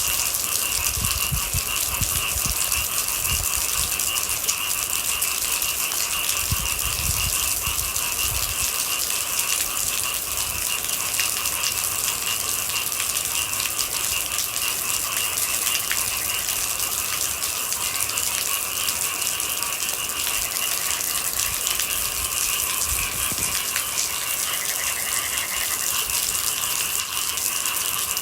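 Steady rain pattering, with a few low rumbles in the first several seconds.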